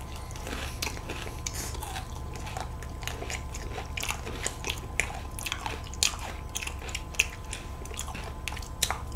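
Close-up chewing and biting of World Cone tiramisu ice cream cones, with many small, irregular crisp crunches over a faint steady hum.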